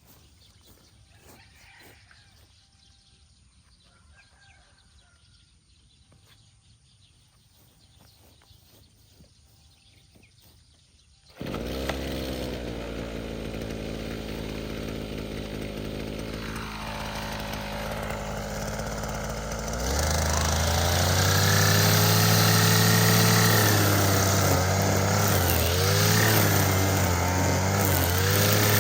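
Small petrol engine of a string trimmer starting suddenly about a third of the way in and running at a steady idle. About two-thirds of the way through it speeds up and gets louder, running at higher revs with a wavering pitch.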